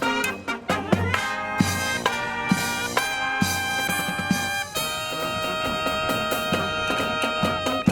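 Marching brass band playing: trumpets and trombones in short punched chords over drums, then a long held brass chord from about five seconds in, with drum hits resuming at the end.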